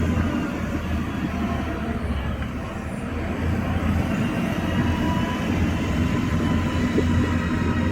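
Heavy diesel earthmoving machinery running steadily with a deep rumble that eases slightly about two to three seconds in and then builds again.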